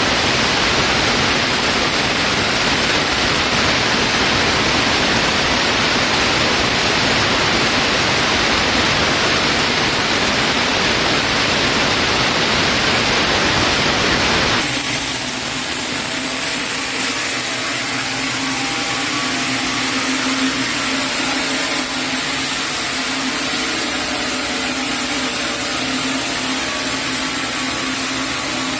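Sawmill machinery running: a loud, even rush of noise that changes abruptly about halfway through to a slightly quieter hum with a steady low tone.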